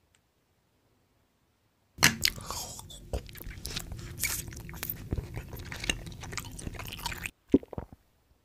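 Close-miked mouth sounds of biting and chewing something crunchy: dense, crackling crunches with sharp clicks, starting about two seconds in and stopping abruptly a few seconds later, followed by a couple of short smacks.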